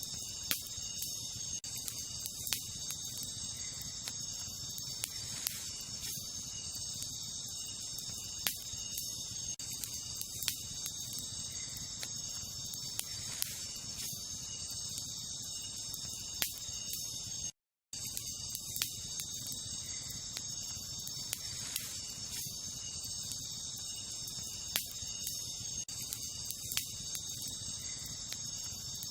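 Wood campfire crackling with scattered sharp pops, over a steady high chorus of night insects such as crickets. The sound cuts out completely for a split second a little past the middle.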